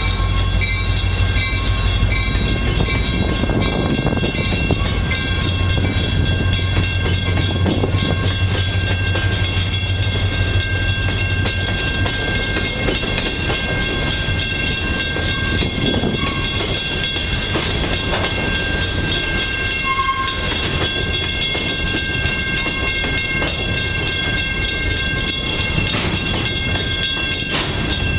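A freight train of covered hopper cars rolling past close by, wheels running on the rails with a steady rumble and several steady high ringing tones over it. A deep low rumble underneath fades out about twelve seconds in.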